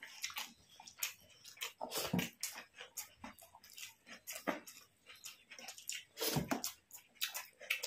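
Close-up mouth sounds of eating: chewing and lip smacks as a series of short, irregular wet clicks.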